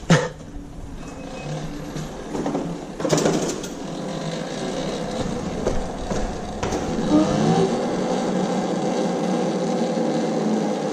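A motor vehicle running close by on the street, with a brief clatter about three seconds in; it grows louder about seven seconds in and then holds steady.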